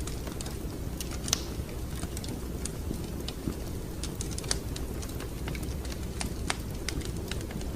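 Wood fire crackling in a fireplace: irregular sharp pops and snaps, one louder pop about a second in, over a steady low rumble of the burning fire.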